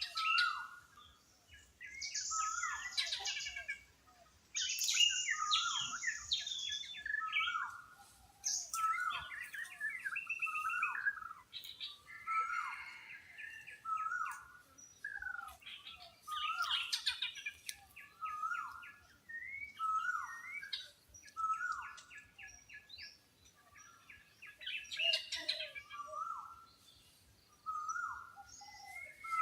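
Several birds calling together: a short down-slurred note repeated every second or two, mixed with higher chirps and whistles and bursts of fast trilling.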